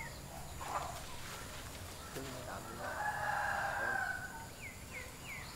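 Bird calls: one long, level call about three seconds in, then a quick run of short falling chirps near the end.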